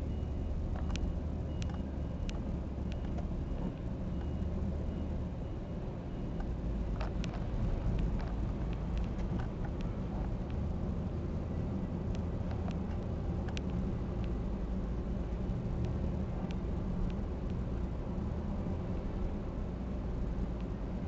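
Steady low engine and road rumble of a car being driven, heard from inside the cabin, with scattered light clicks. A faint high beep repeats about twice a second for the first few seconds.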